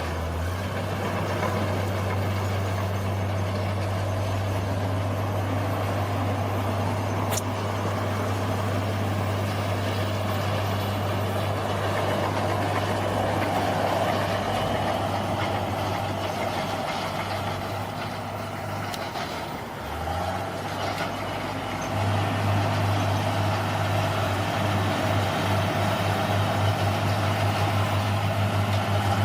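Bulldozer's diesel engine running steadily as it works. It eases off briefly about two-thirds of the way through, then comes back louder with a pulsing beat.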